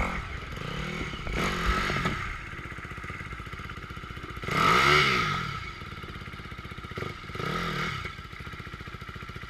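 Dirt bike engine running with three rises in revs, each climbing and falling back, the loudest about halfway through, with a steady lower engine sound between them.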